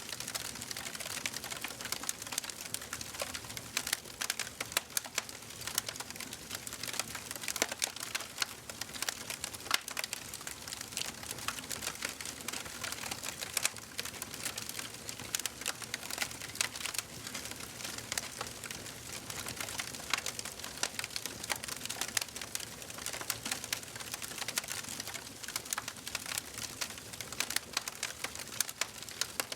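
Wood fire burning in a fireplace: a steady stream of small irregular crackles and pops over a soft hiss.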